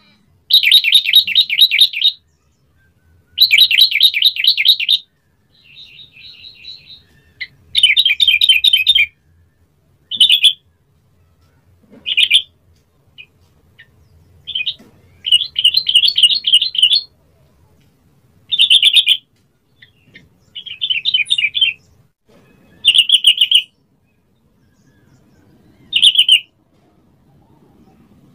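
Yellow-vented bulbul singing: about a dozen short phrases of quick repeated notes, each coming a second or two after the last.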